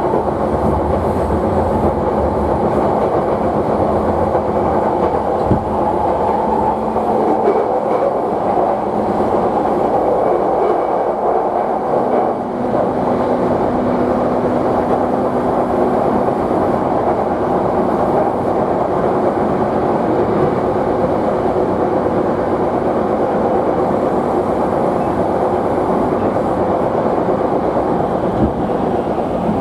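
Running noise heard inside an E235-0 series electric train's motor car: wheels rolling on rail with a steady electric whine from the traction equipment. One of its tones shifts about 12 seconds in.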